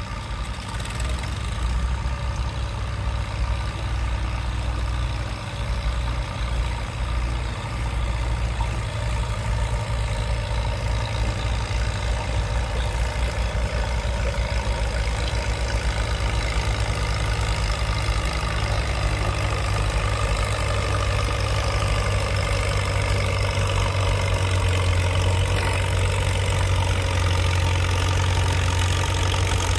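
Allis-Chalmers tractor's four-cylinder engine running steadily, getting louder in the last few seconds.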